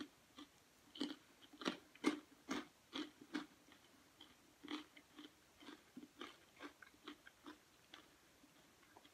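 A person chewing a hard Japanese rice cracker: crisp crunches about twice a second, strongest in the first few seconds, then fainter and sparser as the chewing slows.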